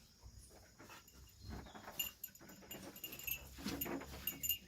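Small livestock bleating about three-quarters of the way in, among several sharp clicks and clinks; the loudest clicks come about two seconds in and near the end.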